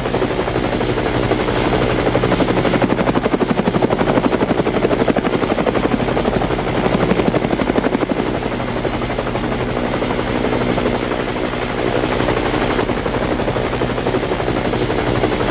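A loud machine running steadily with a rapid, even pulse.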